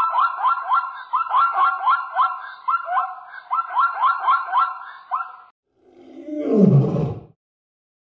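Zebra calling: a rapid run of short yelping barks, each rising in pitch, about four a second for some five seconds. It ends in one louder, deeper call that falls steeply in pitch.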